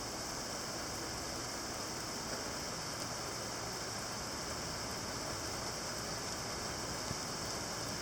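Heavy rain falling steadily, a downpour with a constant hiss and a few faint drop ticks.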